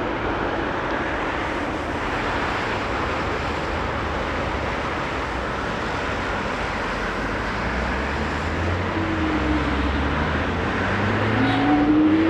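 Passenger jet on landing approach, a steady engine rumble that grows a little louder in the last few seconds, where a rising engine tone comes in.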